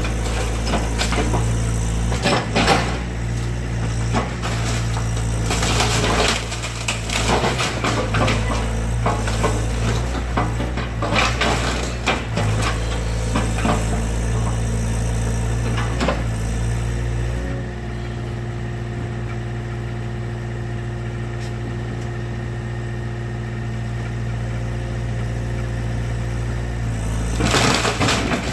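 Excavator's diesel engine running steadily while it breaks up a wooden garage, with repeated cracking and crunching knocks through the first two-thirds. Then a stretch of just the engine humming evenly, and the crashing starts again near the end.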